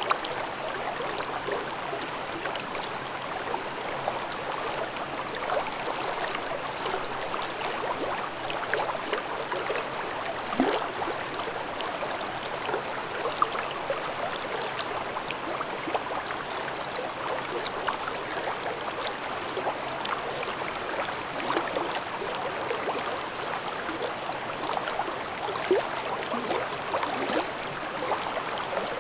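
Valley stream babbling: a steady rush of running water with many small splashes and gurgles throughout.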